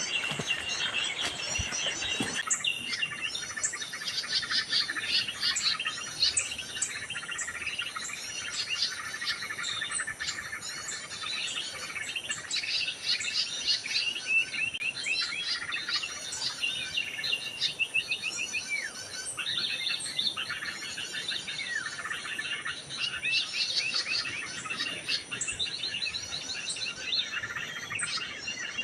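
Many small birds chirping and calling at once: dense, overlapping quick chirps and trills. The background changes abruptly about two seconds in.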